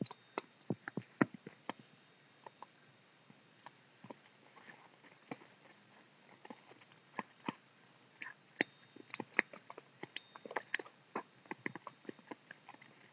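Budgies nibbling and chewing with their beaks, picking at paper: a scatter of small, irregular clicks and crackles, busier in the second half.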